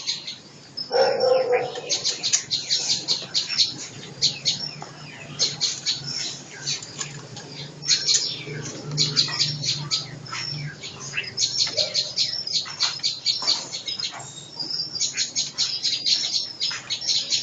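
Caged songbirds chirping in quick runs of sharp, high calls, several a second. The calls come in bursts with short pauses between them, over a faint steady low hum.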